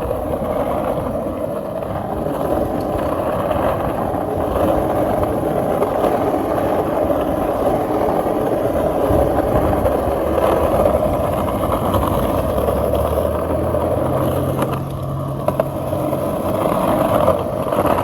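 Skateboard wheels rolling over pavement, a steady loud rumble without a break. A low hum joins in for a few seconds near the end.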